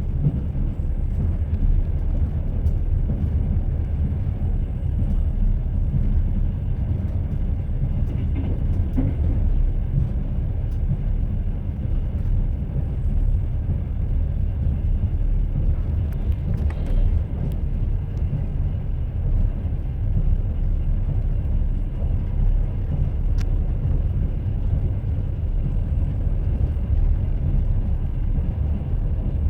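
Railway carriage wheels running over the track: a steady low rumble with faint occasional clicks.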